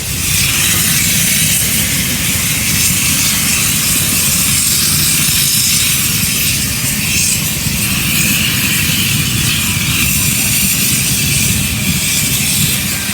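Loud, steady hiss of pressurised gas rushing out of a household LPG cylinder, with a low rumble under it and no break.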